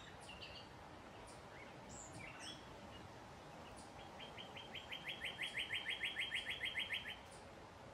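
Outdoor ambience of songbirds: scattered short chirps over a faint steady hiss, then, about four seconds in, one bird gives a fast, even trill of about ten notes a second lasting some three seconds.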